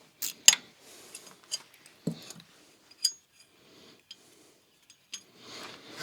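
Scattered metallic clicks and clinks of hand tools and bolts against engine parts, one near the middle ringing briefly, as an EGR valve is unbolted.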